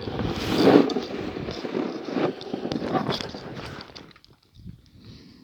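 Irregular scraping and rustling noise with crackles, from snowboarding as heard on a headphone microphone, dying away to faint noise about four seconds in.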